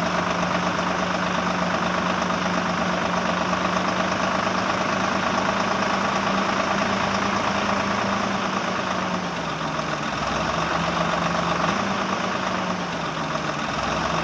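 A steady engine-like running sound, the kind of idling drone given to a mini JCB. Its pitch drops slightly about nine seconds in and comes back up near twelve seconds.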